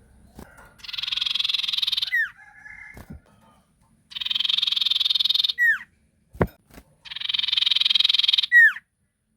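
Sirtu bird calls played as a lure recording: three harsh, buzzy rattles of about a second and a half each, each ending in a sharp downward-sliding whistle. A few short clicks fall between them.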